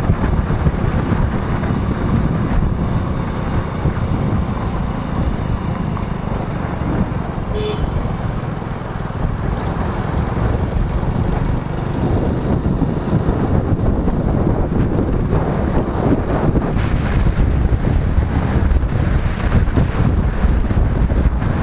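Wind rushing and buffeting over the microphone of a moving motorcycle, with road and traffic noise underneath.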